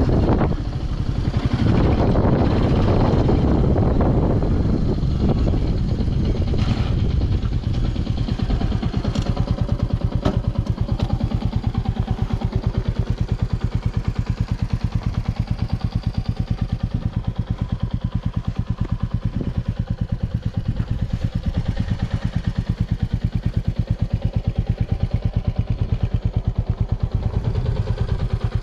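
Royal Enfield motorcycle engine idling with a steady, even thumping exhaust beat. Wind buffets the microphone over the first several seconds.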